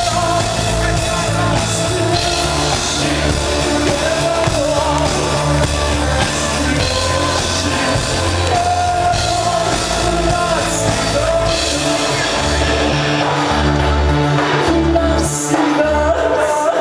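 Live rock band playing, with a singing voice over drums, bass and guitar.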